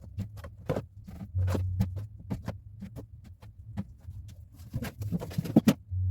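Irregular light clicks and knocks, as of objects being handled and set down, with a low hum that switches on and off in short stretches.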